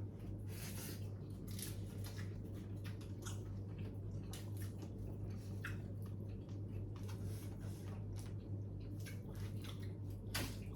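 Close-up eating sounds: chewing and biting food with soft, irregular clicks and rustles of food and utensils, over a steady low hum.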